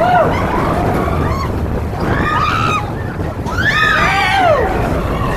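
Seven Dwarfs Mine Train roller coaster running, a steady rush of wind and track noise, with several rising-then-falling voiced calls over it, the longest about four seconds in.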